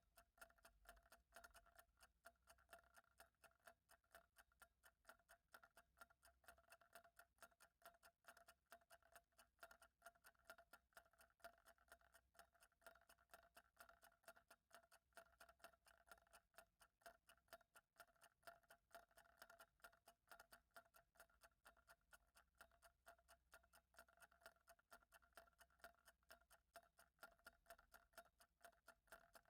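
A clock ticking faintly and evenly, with a faint steady tone underneath.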